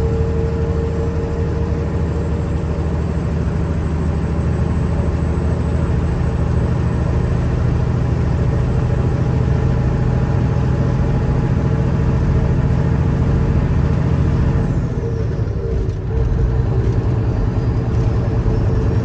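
Big rig truck's diesel engine running steadily under way, with road noise. The steady whine cuts out and the engine note briefly dips about fifteen seconds in, then carries on.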